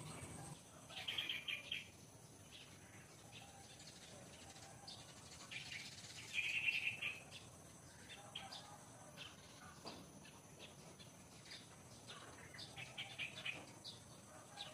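Birds chirping: three bursts of rapid chirps, about a second in, around six seconds in and near the end, with faint scattered chirps between them.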